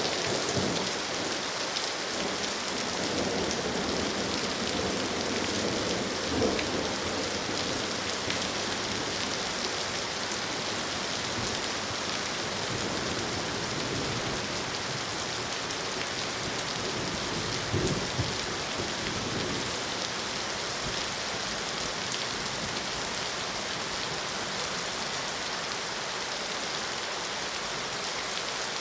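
Steady rain falling on a surface, with a couple of short low rumbles of thunder, about six seconds in and again around eighteen seconds.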